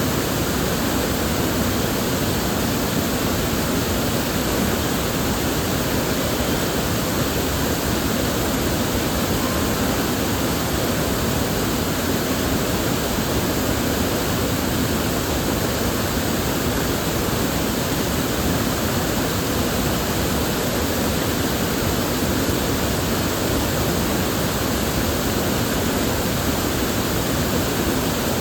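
River water flowing steadily, a constant even rush with no breaks or changes.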